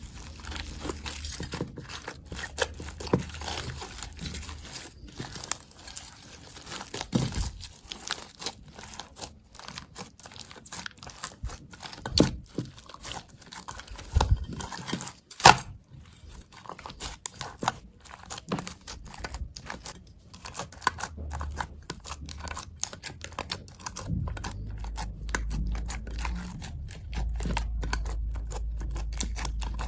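Slime being squeezed and worked by hand, giving a dense run of small crackling, crinkling clicks with a few louder snaps. A low hum comes in near the end.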